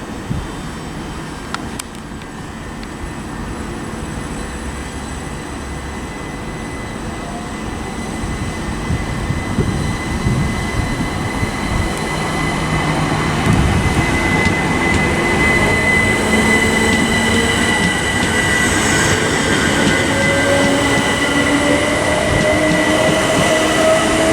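Southern Class 377 Electrostar electric multiple unit pulling away from the platform, getting louder as it goes, with a steady high squeal and a whine that rises in pitch near the end as the train accelerates.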